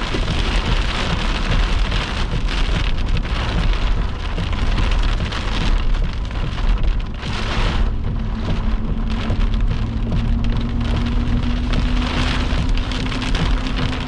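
Heavy rain pelting the vehicle during a tornado-warned storm, with a steady low rumble throughout. About halfway through, a low steady hum comes in and rises slightly in pitch.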